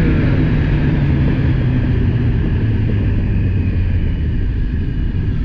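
Motorcycle engine running under a steady rush of wind noise, its pitch easing slowly downward.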